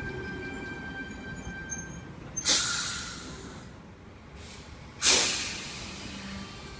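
Tangara electric train coming to a stand, its steady motor whine dying away, then two sudden loud bursts of compressed air hissing from its air brakes, about two and a half seconds apart, each fading over about a second.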